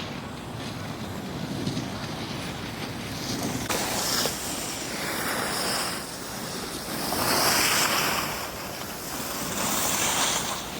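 Wind rushing over the microphone with the scraping hiss of skis or a snowboard on packed snow, swelling several times as the edges bite in turns.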